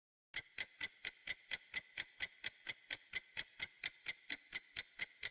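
Clock-ticking sound effect used as a quiz timer: sharp, evenly spaced ticks, about four and a half a second, starting about a third of a second in.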